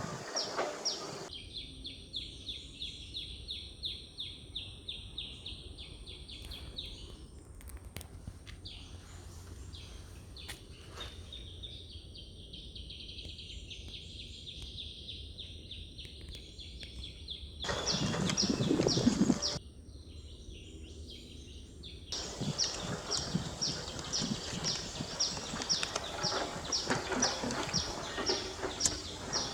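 Outdoor ambience with a high-pitched chirp repeated evenly, about three to four times a second, dropping out and returning abruptly. A loud rush of noise lasts about two seconds, about eighteen seconds in.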